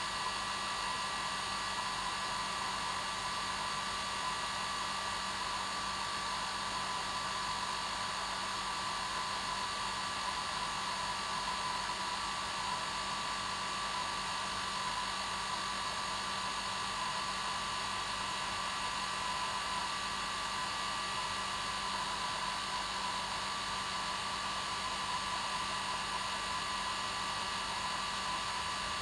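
Hair dryer running continuously on its normal setting: a steady rush of blown air with a constant motor hum.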